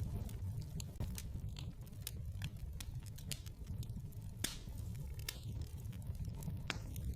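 Wood fire crackling in a fireplace: irregular sharp pops and snaps over a low, steady rumble of the flames, with one louder snap a little past halfway.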